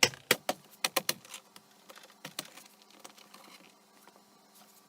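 Plastic trim clips of a Jeep Wrangler JK's inside door panel being pushed back into their holes: a quick run of sharp clicks in the first second or so, two more a little after two seconds, then faint handling noise.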